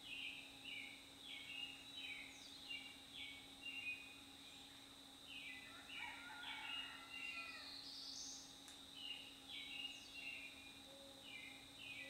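A songbird singing a song of quick, repeated short whistled phrases in three bouts with short pauses between, over a faint steady high-pitched hum.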